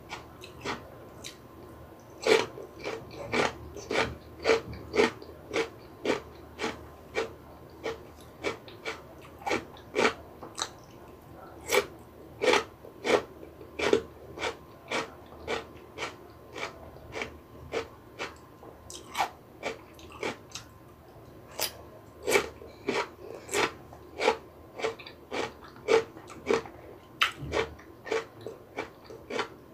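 Close-miked crunchy chewing of raw cucumber: sharp crunches about twice a second in runs, thinning out midway and picking up again.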